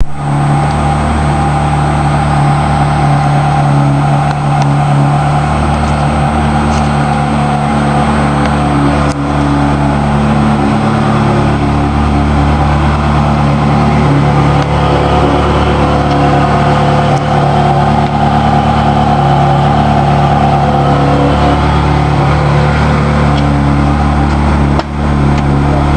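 Ferrari 360 Spider's 3.6-litre V8 running steadily at idle through its original exhaust.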